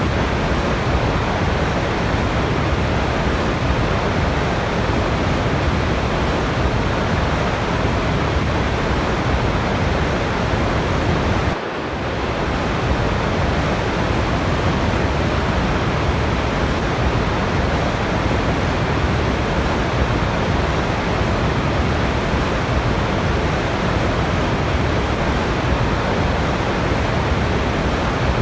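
Waterfall: a steady, loud rush of falling water, with a brief dip and gap about twelve seconds in before the rush resumes.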